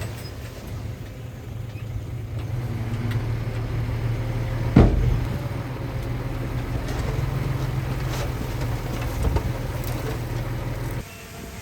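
Heavy diesel engine running steadily at a low hum, with one sharp loud clank about five seconds in; the engine sound drops away suddenly near the end.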